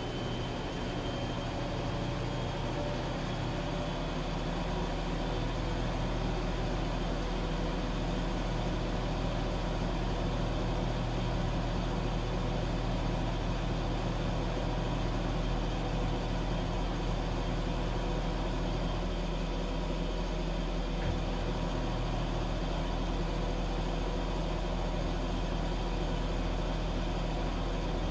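Washing machine running: a steady low mechanical hum and rumble that builds slightly over the first few seconds, then holds even.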